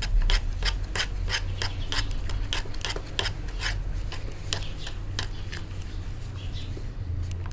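Repeated short scraping strokes, about three a second for the first four seconds and then sparser, over a steady low hum.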